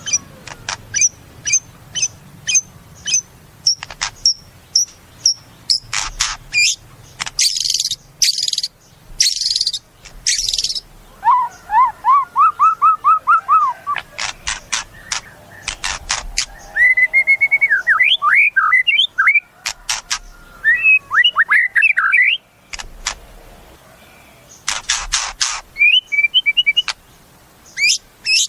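White-rumped shama (murai batu) singing a varied song: a run of short high chips, two or three a second, then harsh rasping bursts, and quick series of slurred rising and falling whistles and trills.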